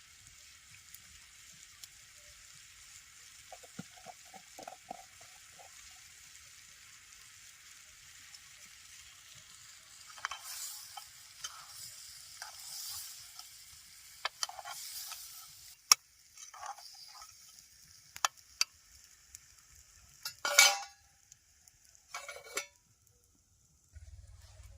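Food sizzling in a pan while a utensil stirs and scrapes. From about ten seconds in come scrapes and sharp clinks of the utensil against the pan, the loudest about sixteen and twenty seconds in.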